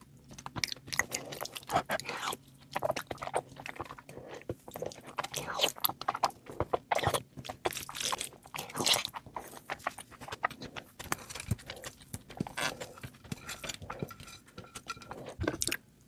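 Close-up chewing and crunching: a person eating, with quick irregular crunches and mouth sounds.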